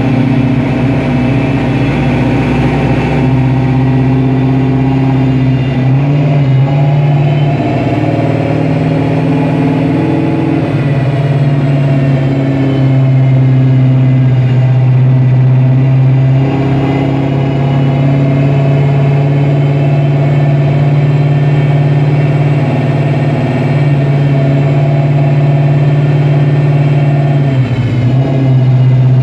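Eleanor coupe's engine running hard at a steady, held speed while it drives the rollers of a chassis dynamometer. Its pitch shifts slightly about 6 and 17 seconds in and dips briefly near the end.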